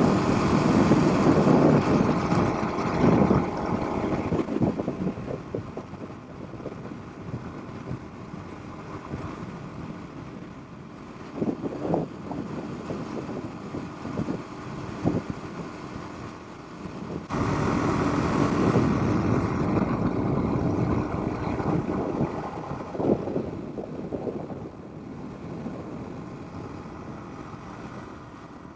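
Suzuki DR-Z400's single-cylinder engine running while riding, mixed with wind rush on the microphone. The sound gets suddenly louder about 17 seconds in.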